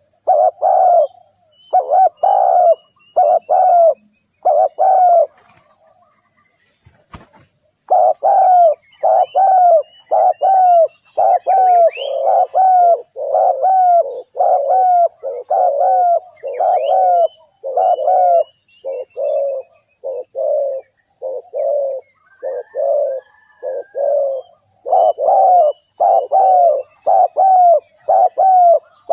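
Spotted dove cooing in a rapid, even string of short coos, breaking off for a couple of seconds near the start before carrying on; this is the call used as a decoy to draw wild spotted doves.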